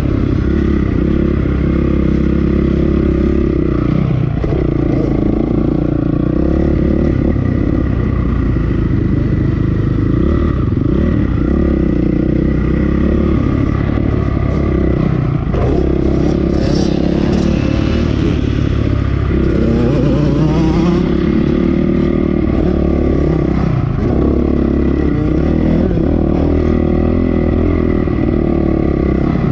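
2008 Honda CRF450R's single-cylinder four-stroke engine being ridden hard, its pitch rising and falling again and again as the throttle is opened and closed. Heard through the rider's helmet-mounted camera.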